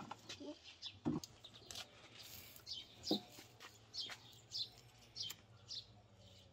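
A small bird chirping faintly: a run of short, high, falling notes, about two a second, through the middle. A couple of soft knocks sound about a second and three seconds in.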